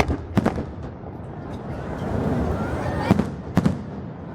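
Fireworks exploding, with sharp bangs in pairs: two right at the start and two more about three seconds in, over a steady rumble of background noise.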